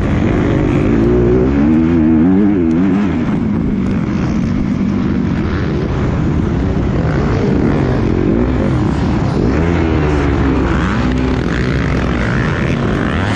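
Motocross motorcycle engine running hard, revving up and down again and again as the throttle opens and closes.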